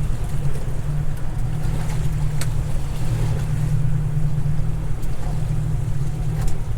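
A motorboat's engine runs with a steady drone, under wind and sea noise, with a few sharp knocks or splashes.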